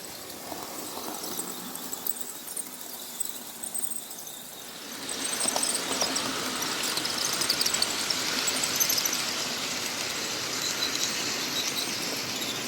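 OO gauge model train running on the layout's track, with high-pitched wheel squeal, growing louder about five seconds in.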